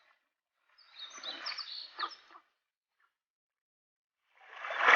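Short high bird chirps over a wash of rushing noise, heard in two short stretches cut apart by dead silence; the noise comes back louder near the end.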